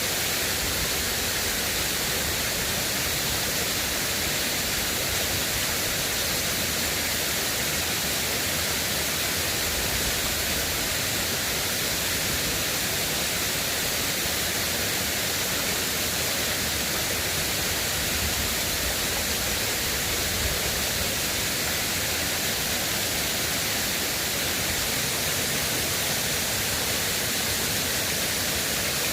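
River water rushing in a steady, unbroken hiss.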